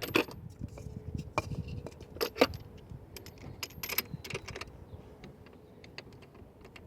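Hand tools clinking and clanking against metal parts in an engine bay, a series of sharp knocks with a light ringing, busiest in the first few seconds and then thinning out.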